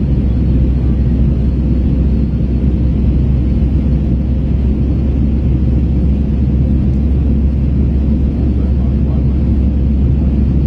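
Steady low rumble of an Airbus A321's engines and airflow heard inside the passenger cabin, with a faint steady hum above it, as the jet climbs out after a go-around.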